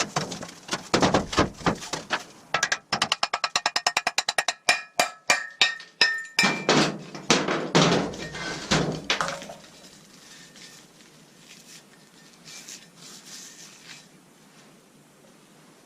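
Hammer striking metal. A run of sharp blows is followed by a quick series of light taps with a metallic ring, then a few heavier blows, and the hammering stops about ten seconds in. Faint handling sounds follow.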